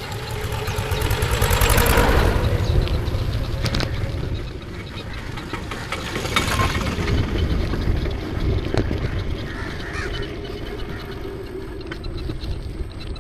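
Wind rushing over the camera microphone with road and vehicle noise while riding a bike, swelling louder about two seconds in and again around six seconds, with a few light clicks.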